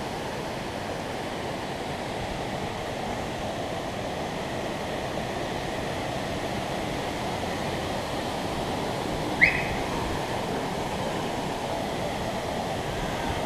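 Steady rushing of waterfalls pouring into pools, with one short, high chirp about nine seconds in.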